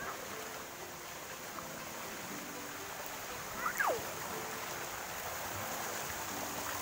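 Water rushing steadily in a stream, with a brief high sound gliding down in pitch about halfway through.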